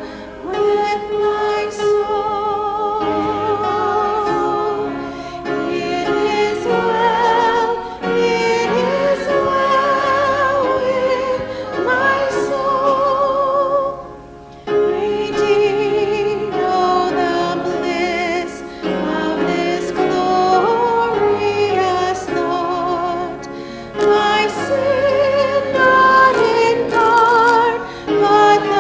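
Church congregation singing a hymn, held notes with a noticeable vibrato, phrase after phrase, with a brief pause about halfway through.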